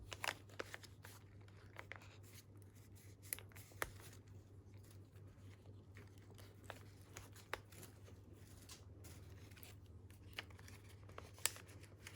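Scattered faint clicks and scrapes of scissor blades prying metal staples out of stapled paper trim, over a steady low hum.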